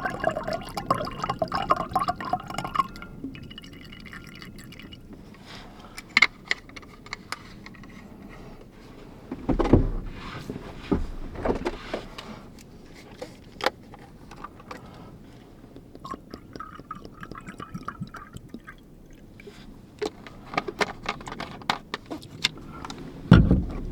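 Liquid poured into a container for the first few seconds, with a shorter pour later on. Between and around the pours come clicks and knocks of cookware being handled, with a heavier thud about ten seconds in and another near the end.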